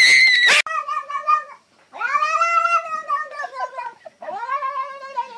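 A domestic cat yowling: after a loud shrill cry that cuts off abruptly about half a second in, it gives three long drawn-out meows, each rising and then falling in pitch.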